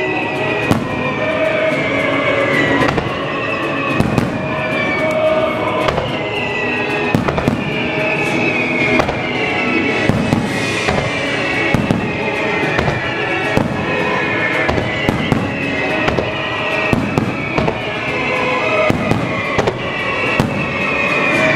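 Aerial fireworks shells bursting in quick succession, a dense run of sharp bangs, with music playing alongside.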